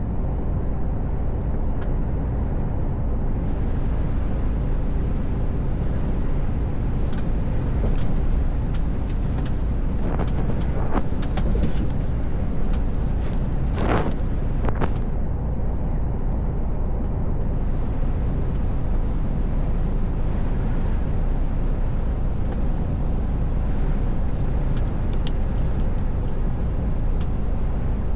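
Mercedes Actros L truck driving, its engine and tyres making a steady low drone. Around the middle come a few short rushing sounds.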